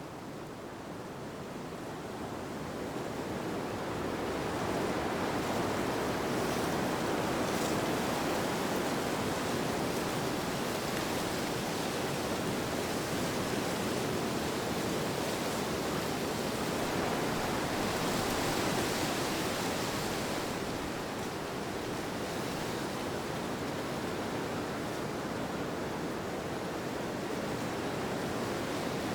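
Steady rushing wind ambience that swells over the first few seconds, with a hissier swell in the middle.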